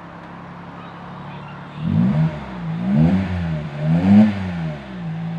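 Daihatsu Mira e:S's 660 cc three-cylinder engine with a Kakimoto aftermarket muffler idling, then revved three times about a second apart, settling back to idle near the end.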